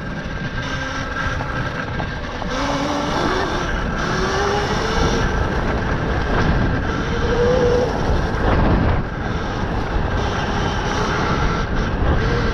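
Electric dirt bike being ridden, its motor whining and rising in pitch as it speeds up a few times, over a steady rush of wind on the microphone and tyre noise.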